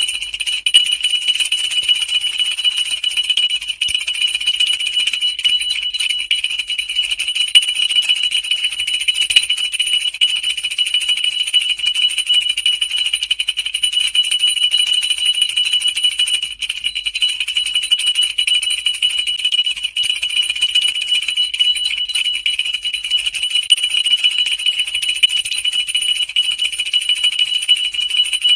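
Solid heavy brass jingle bells of an oblong musk-melon design shaken continuously: a steady, dense jingling with one bright high ringing pitch throughout.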